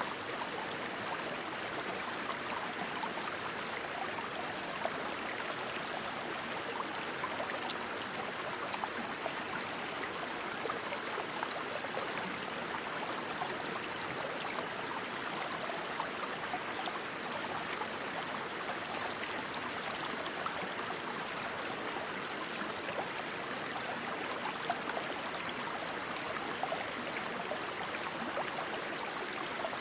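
Rushing stream water flowing steadily, with short high-pitched chirps recurring irregularly over it.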